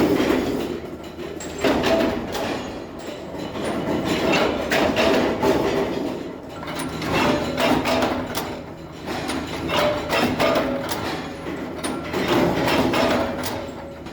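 Metalworking in a bolt factory: irregular clanks and knocks of steel parts and tools over the running of shop machinery, with short steady ringing or whining tones now and then.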